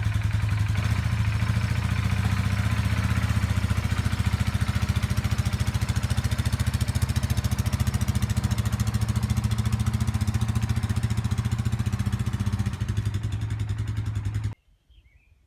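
An engine running at a steady speed with fast, even pulses, cut off abruptly near the end.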